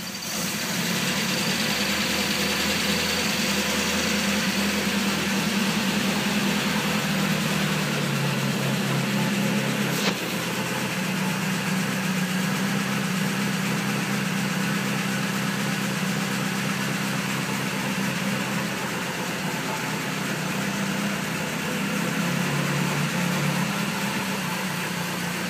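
Car engine idling steadily after a cold start. Its lowest note drops away about eight seconds in, and there is a single sharp click about ten seconds in.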